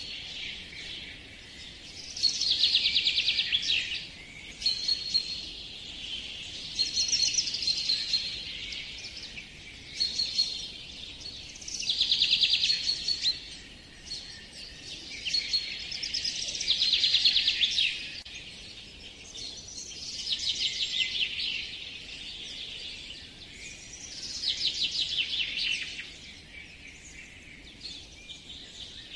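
A songbird singing: fast trilled phrases every few seconds, with short high whistled notes between them.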